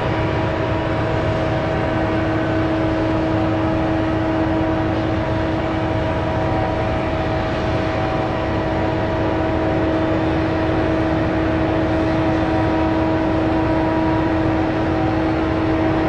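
A motor running steadily at a constant speed: an even hum with a fixed pitch and its overtones over a broad rumble, with no change in speed.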